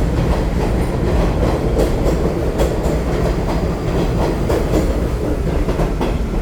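New York City subway train running on the track: a loud, steady rumble with the wheels clicking over the rail joints.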